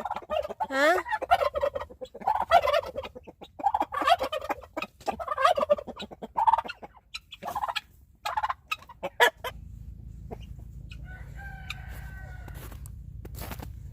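Chickens clucking and calling over and over for about nine seconds. After that a low steady hum sets in, with a faint call and a few clicks.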